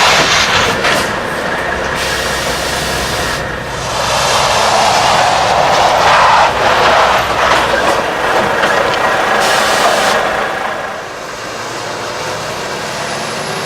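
Heavy Volvo truck driving at speed and braking hard: a loud rush of tyre and air-brake noise that changes abruptly several times.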